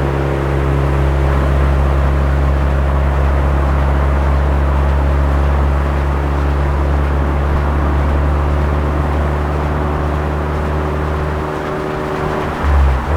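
Suzuki Swift Sport ZC33S engine and Fujitsubo aftermarket exhaust running steadily at cruise. Near the end the note drops away, gives a short louder blip, then settles at a different steady pitch.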